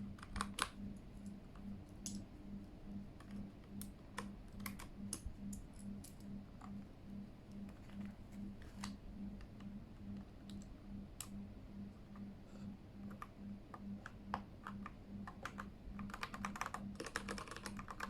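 Keychron K8 mechanical keyboard: scattered single key clicks and taps as keys and keycaps are handled, then a quick run of typing near the end, with the new keycaps fitted. A faint pulsing hum runs underneath.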